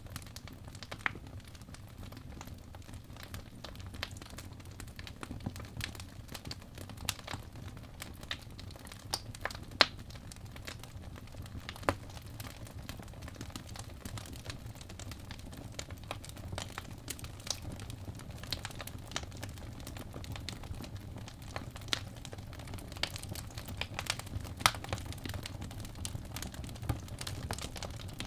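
Fireplace crackling: irregular sharp pops and snaps over a low steady rumble.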